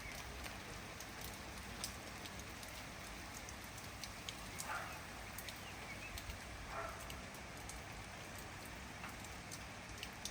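Steady rain falling, with many separate drops striking close by, and a few faint bird chirps.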